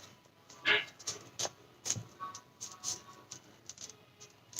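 Origami paper being folded and creased by hand: short, irregular crinkles and ticks, with a louder rustle about a second in.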